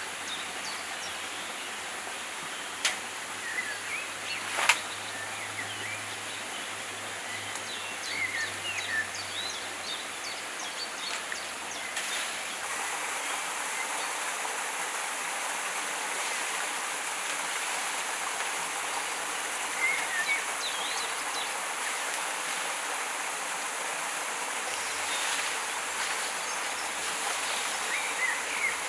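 Forest ambience: a steady rush of flowing stream water, with short bird chirps now and then. Two sharp snaps sound a few seconds in.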